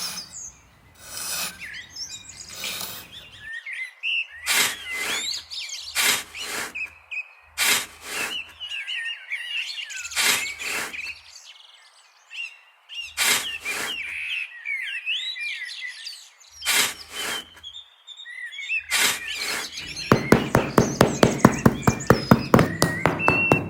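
Small birds chirping, with pairs of sharp knocks every couple of seconds. About 20 seconds in, a fast, steady run of knocks starts.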